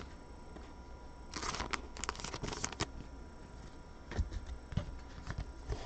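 Football trading cards being handled: a stretch of soft rustling and sliding of card stock and packaging in the middle, then a couple of light taps.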